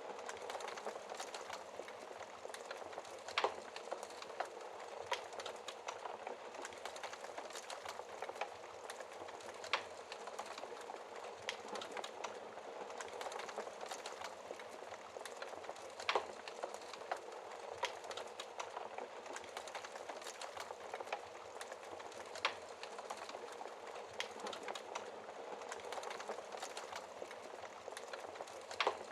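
Wood fire crackling in a fireplace: a steady soft hiss with many small crackles and a louder pop roughly every six seconds.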